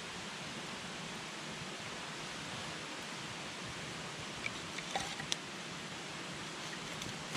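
Wood campfire burning with a steady hiss, with a few sharp crackles and pops from the wood about two-thirds of the way through.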